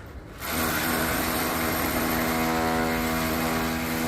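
A small motor running steadily with an even-pitched hum and hiss, starting about half a second in.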